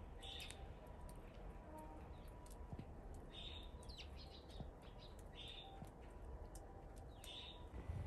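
Faint bird chirps, a short call every couple of seconds, over a steady low rumble.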